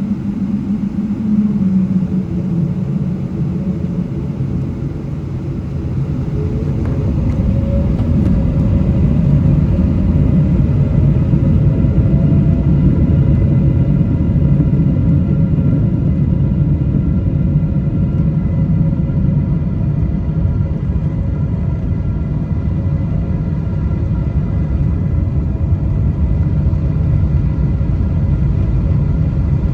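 Cabin noise of a Boeing 777: a steady deep rumble from the engines and airframe. It grows louder several seconds in, as a faint engine tone rises, then holds steady.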